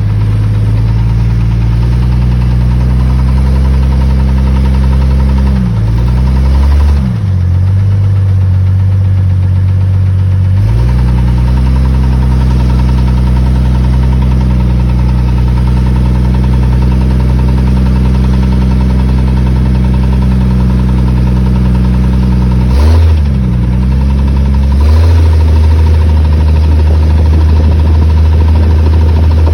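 1997 Jeep Cherokee XJ's 4.0-litre straight-six running with a clicking, ticking noise that shows up under acceleration. Engine speed dips and climbs briefly about six seconds in and again a little past twenty seconds.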